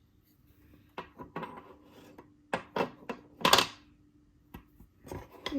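Wooden puzzle pieces knocking and clattering against the board and each other as they are picked up and tried in place: a series of separate knocks, the loudest about three and a half seconds in.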